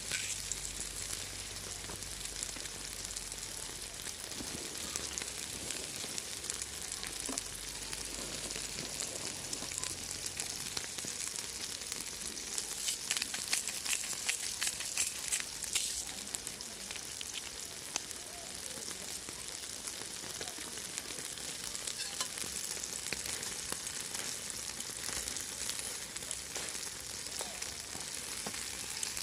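Food frying on a hot steel can used as a griddle: a steady sizzle with fine popping and crackling that gets denser in the middle.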